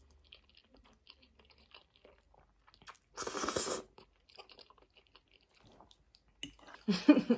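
Close-miked eating of spaghetti: faint wet chewing clicks, a loud noisy burst lasting most of a second about three seconds in, and another loud burst near the end.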